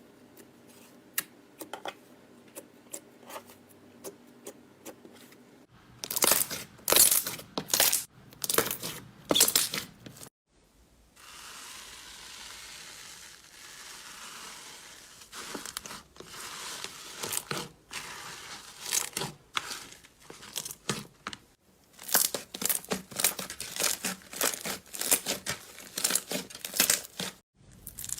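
Slime being squeezed, poked and stretched by hand: sticky clicks, pops and crackling bursts, with a softer steady rustle for a few seconds in the middle.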